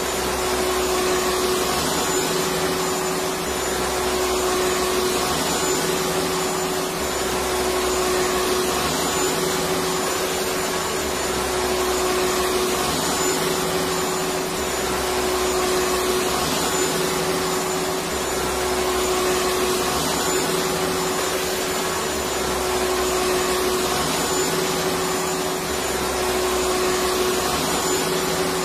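Electric vacuum cleaner running steadily: a continuous whooshing rush of air with a steady motor hum, and a slight low swell repeating about every two seconds.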